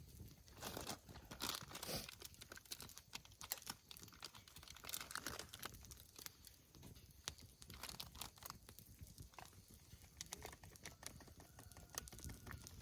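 Faint crinkling and rustling with many scattered sharp clicks and crunches, like something being handled or stepped on.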